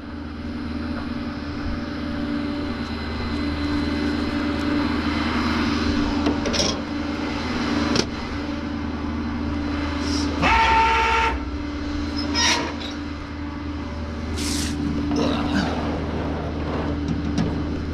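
Steady low mechanical hum of a running engine or motor while a car is loaded for transport. About ten seconds in a brief high squeal sounds, and there are a few sharp clicks.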